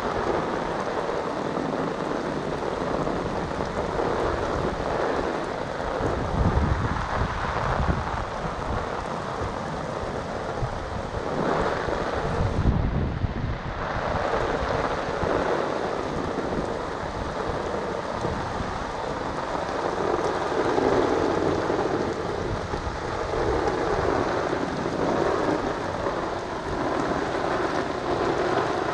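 Steady rain falling and water splashing in the flooded gutter at a leaf-clogged curbside storm drain, with two low rumbles partway through.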